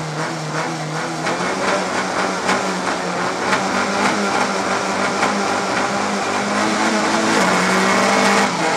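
Rally car engine held at high revs at the stage start, its note steady with a slight step up late on, then a brief dip near the end as the car launches.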